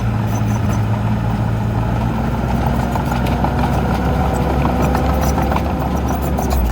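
Heavy diesel engine of earthmoving machinery running steadily, with scattered light clicks and clanks.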